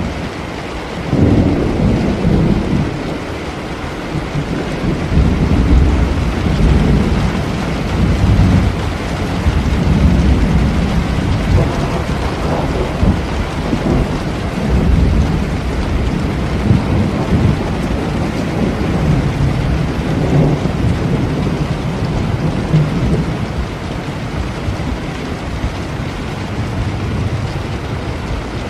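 Steady rain with rolling thunder: a long low rumble starts about a second in, swells and fades several times, and eases off near the end.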